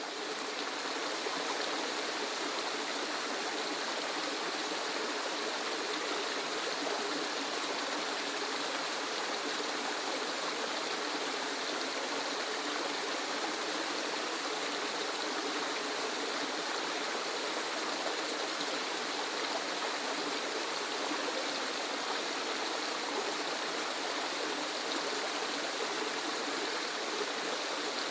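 Steady rushing water, an even, unbroken wash of sound, as of a waterfall.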